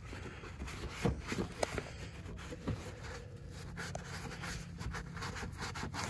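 Microfiber cloth rubbing over faded plastic trim: faint, irregular scuffs and light clicks over a low steady hum.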